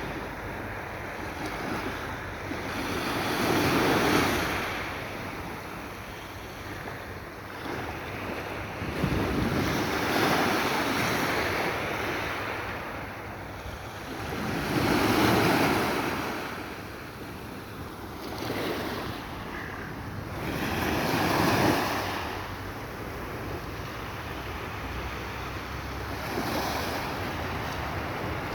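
Sea waves breaking and washing on the shore, swelling and falling about every five to six seconds, with wind on the microphone.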